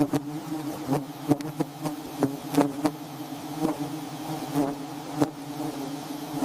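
Bees buzzing at a hive: a steady, low, many-winged drone, with frequent sharp clicks and taps scattered through it.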